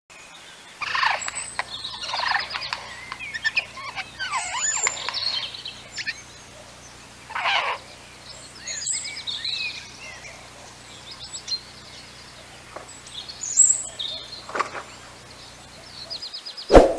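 Several wild birds calling at once, a busy mix of short chirps, trills and quick series of notes. Near the end comes one brief, loud, sharp sound.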